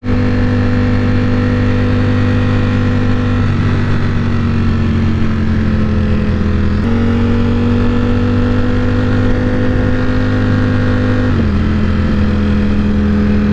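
Ducati Panigale V4 S's V4 engine running at a steady cruise, with the engine speed easing down slightly about three and a half seconds in, rising again about seven seconds in, and easing down again near the end.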